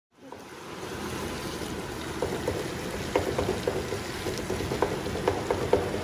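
Chicken frying in oil in a nonstick wok, sizzling steadily while a wooden spatula stirs it, with scattered clicks and knocks of the spatula in the pan from about two seconds in.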